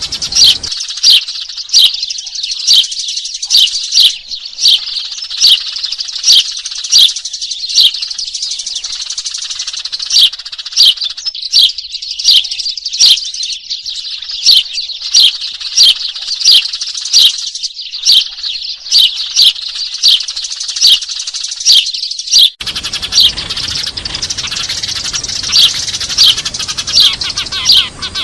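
A flock of Eurasian tree sparrows chattering noisily in a lure recording: a dense, continuous twittering, with loud, sharp chirps standing out about once or twice a second.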